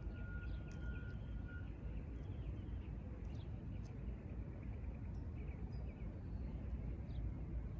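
Small birds chirping in quick repeated notes through the first half, with a thin steady whistle for the first second and a half. Underneath runs a steady low rumble.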